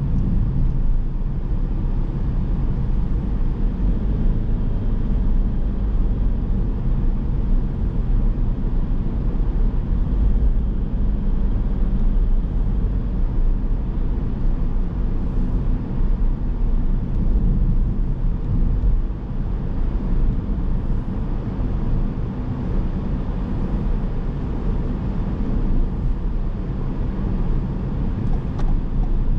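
Car driving sound: a steady low rumble of engine and tyres on the road from a moving car, dipping briefly about two-thirds of the way in.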